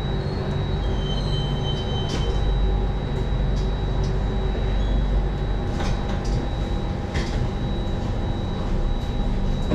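Interior running noise of a Singapore MRT Circle Line train pulling into a station: a steady low rumble with a thin high-pitched whine and a few short clicks and knocks from the car.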